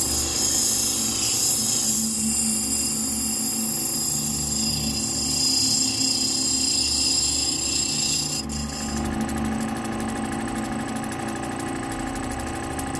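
Lapidary grinding wheel running with an opal held against it, a steady motor hum under a high grinding hiss. The grinding sound changes about eight and a half seconds in.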